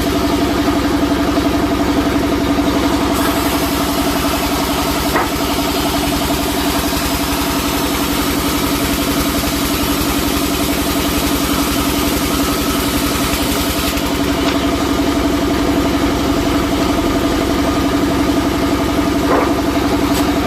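Sawmill's engine running at a steady speed with a constant hum, and a brief click about five seconds in and another near the end.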